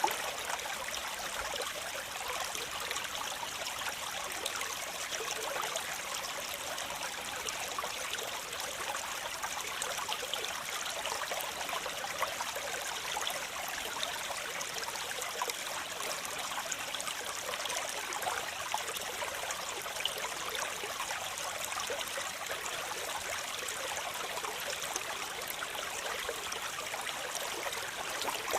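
Waterfall running water: a steady, unbroken rush of splashing water with little deep rumble.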